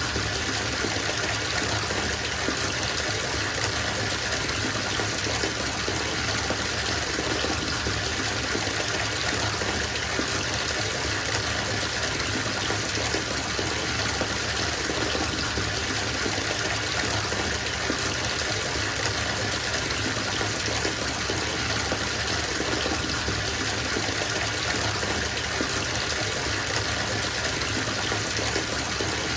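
Bathtub filling from the tap: water gushing steadily into the tub.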